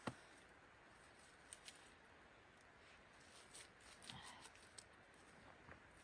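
Near silence broken by scattered faint small clicks and ticks, the sharpest just at the start, and a brief soft rustle about four seconds in.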